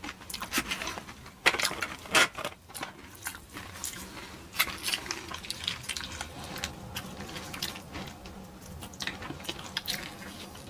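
Close-miked eating: chewing and crunching food with wet, crackling mouth sounds, the loudest crunches coming about one and a half and two seconds in.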